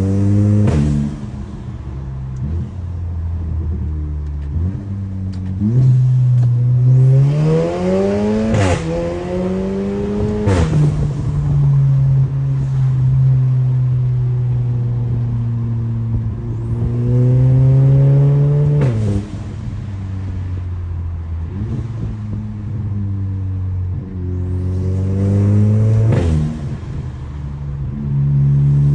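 Audi B9 A4's turbocharged engine pulling hard several times, rising in pitch and then dropping suddenly at each shift or lift-off, with a sharp exhaust crack at each drop. A hiss rises with each pull.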